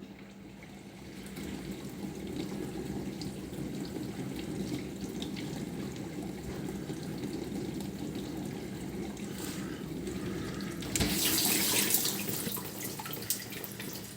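Bosch dishwasher's recirculation pump running and spraying water around inside the tub, a steady rushing wash that builds up over the first couple of seconds. About eleven seconds in, the water noise gets suddenly louder and brighter for a couple of seconds.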